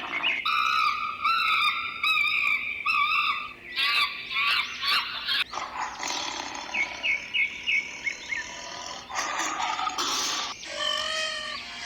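A quick succession of short animal calls and cries, pitched and harmonic, changing from one kind of call to another every second or so.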